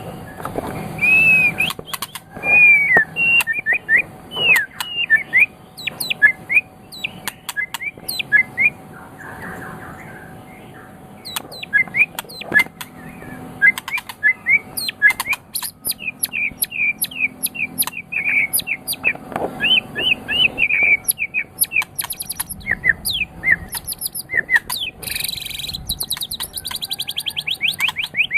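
White-rumped shama (murai batu) singing a long, varied song of quick whistled and chirping notes, with a short lull about ten seconds in and a fast rattling trill near the end. A faint steady hum runs underneath.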